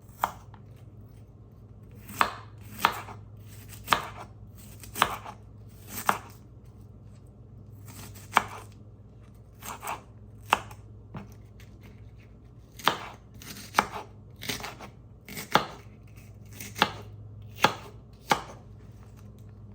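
A kitchen knife slicing onions, the blade knocking sharply on the cutting board about sixteen times at uneven intervals, roughly once a second.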